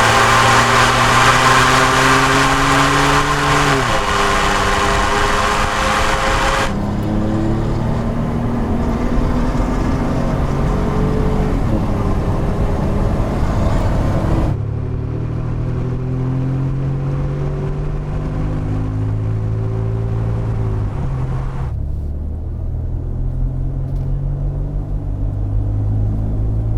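Ford F-150's 3.5-liter EcoBoost twin-turbo V6 running through a Flowmaster American Thunder cat-back exhaust with a Delta Flow muffler, in several clips cut together. It accelerates with rising pitch and a shift about four seconds in, then runs at lower, steadier revs with a rumble.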